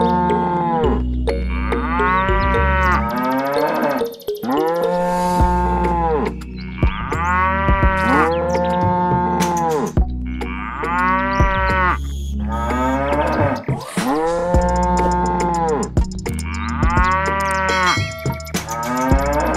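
Cow moo sound effects, one long moo after another every second or two, each call rising and then falling in pitch.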